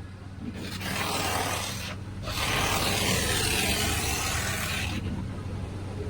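Touchless PDQ LaserWash G5 car wash spraying the car with high pressure. The hiss of the spray comes in two spells, a short one about a second in and a longer one from about two seconds to five, over a steady low hum from the machine.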